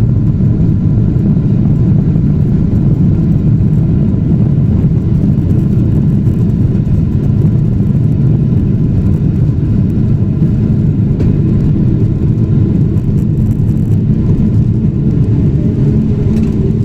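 Steady, deep rumble inside the cabin of a Boeing 777-300ER: its GE90 engines and the airframe running at an even level.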